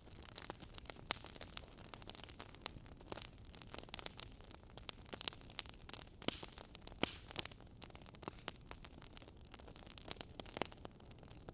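Wood fire crackling in a fireplace, with irregular sharp pops and snaps over a soft steady hiss.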